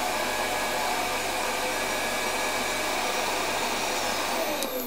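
Vacuum cleaner running steadily, then switched off with a click near the end, its motor whining down in falling pitch.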